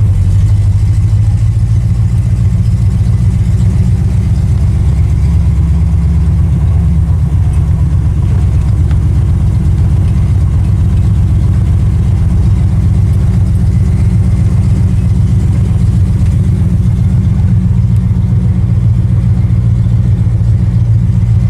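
A car engine running steadily with a loud, even low rumble.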